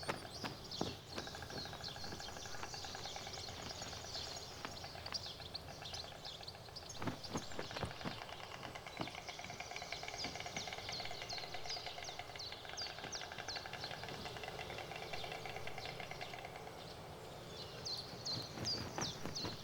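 Small birds chirping repeatedly in short, quick, high calls over a faint rasping outdoor ambience, with a couple of sharp knocks about seven to eight seconds in.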